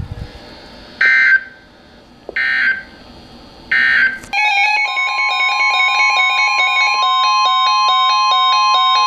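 Three short EAS data bursts, the warbling end-of-message code that closes an emergency alert, about a second apart. Just after the third burst, electronic music starts: fast stepping chime-like notes over a long held tone.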